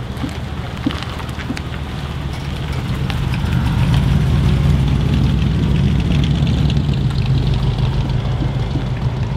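Early-1950s Lincoln sedan's V8 engine running low and steady as the car pulls away at low speed. It grows louder about three seconds in as the car passes close by.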